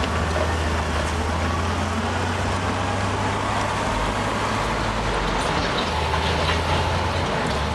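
Diesel engine of heavy earthmoving machinery running steadily with a low drone that shifts a little in pitch now and then.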